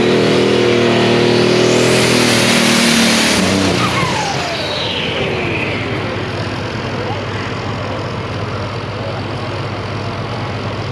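Alcohol-fueled compound-turbo pulling tractor engine running at full power with its pitch rising slightly, then cutting back about three and a half seconds in. A high whine slides down in pitch over the next couple of seconds as it runs down, leaving a lower steady rumble.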